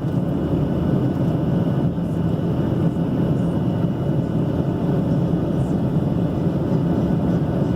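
Steady rumble of a passenger airliner heard from inside the cabin, with a faint thin whine above it.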